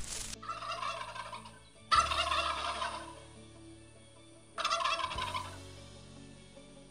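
Domestic tom turkey gobbling three times, the second gobble the loudest.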